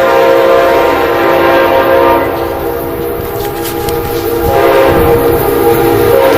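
Amtrak GE Genesis diesel locomotive's horn sounding a loud chord of several notes. It eases off about two seconds in and swells again about four and a half seconds in, the warning of a train approaching the station.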